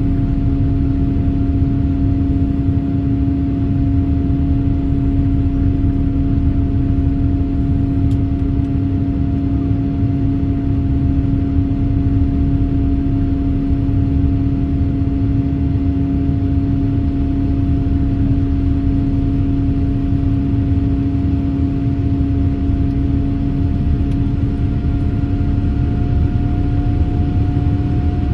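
Cabin noise of a Boeing 787-8 climbing after takeoff: a loud, steady rumble of engine and airflow, with a constant hum over it that rises slightly in pitch near the end.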